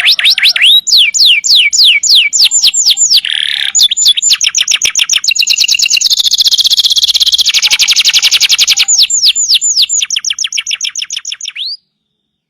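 Domestic canary singing a long, loud song: rapid series of repeated down-slurred whistled notes, with a fast, dense trill in the middle. The song cuts off abruptly near the end.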